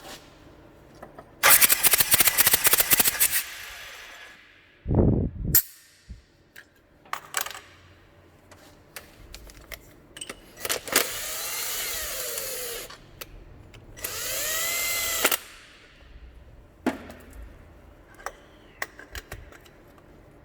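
A power tool run in a loud burst of about two seconds with a rapid rattle, such as a pneumatic impact tool, amid workshop clatter. Later come two bursts of hissing with gliding whistle tones in them.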